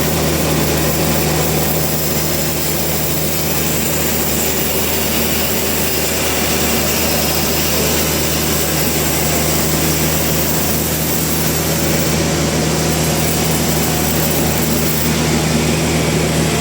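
Sawmill machinery running steadily with a constant low hum and hiss, without letting up.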